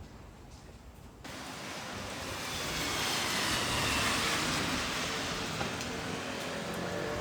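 A train running past: a sudden rush of wheel and rail noise about a second in that swells to its loudest near the middle and stays loud, with faint squealing tones over it.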